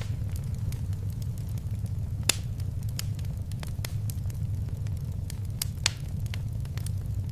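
Wood fire crackling in a fireplace: a steady low rumble with scattered sharp pops and snaps, two of them louder, a little over two seconds in and near six seconds.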